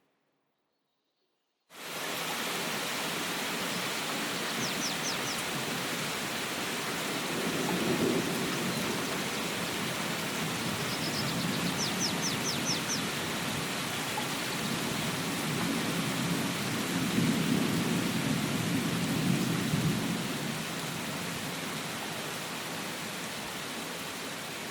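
Steady heavy rain hissing, starting suddenly after a short silence. Low rumbles of thunder swell up about eight seconds in and again around seventeen to twenty seconds, and a bird chirps briefly twice.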